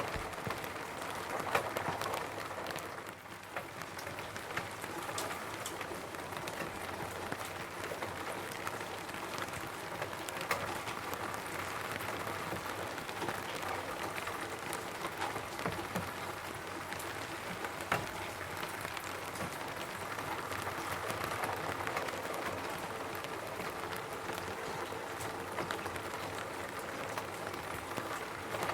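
Rain falling on a roof: a steady patter with individual drops ticking through it, and a few louder drips now and then.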